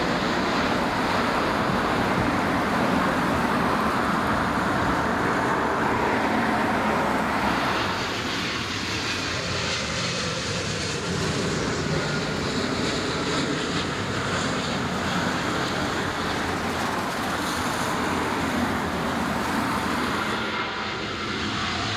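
Jet airliner engine noise, a steady rush that eases slightly about eight seconds in.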